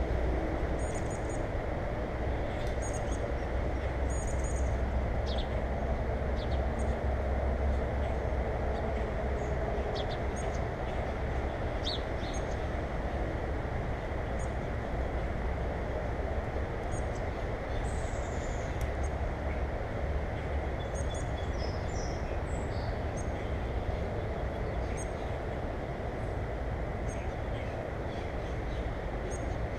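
Small birds chirping in short, high calls, with a falling call a little past halfway. Under them runs a steady low rumble that is heaviest in the first third.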